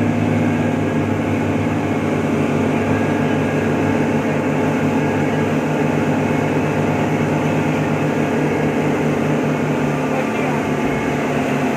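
Boat engine running steadily, a low even drone under a steady rushing hiss.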